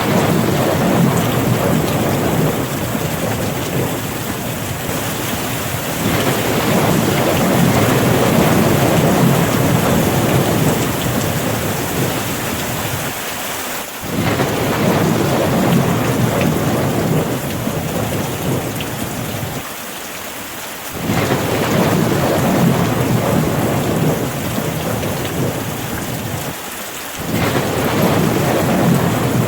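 Steady rain with a low rumble beneath it that swells and eases, dropping away in three brief lulls.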